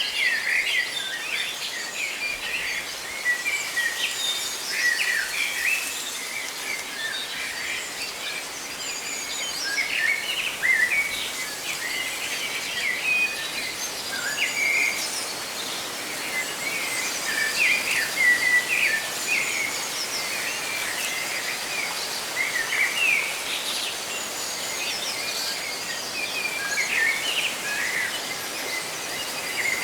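Many birds chirping and calling over one another, with a steady rustle of leaves in the wind underneath.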